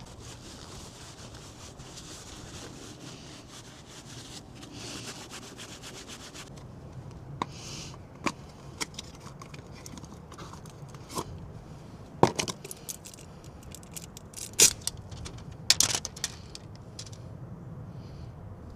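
Oily hands being wiped and rubbed clean, a steady rubbing hiss for about the first six seconds, followed by scattered clicks and knocks of things being handled.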